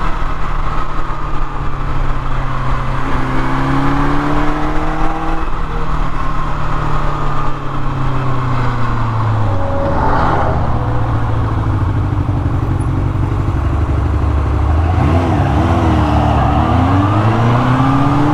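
1979 Kawasaki KZ650SR's inline-four engine pulling hard while riding. Its pitch climbs under throttle and drops back twice in the first few seconds, then runs lower and steadier, and wavers up and down near the end.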